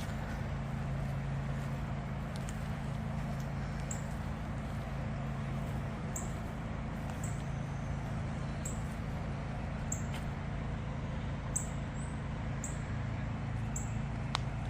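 A small bird giving short, high, falling chirps, roughly once a second, over a steady low hum and rushing background noise.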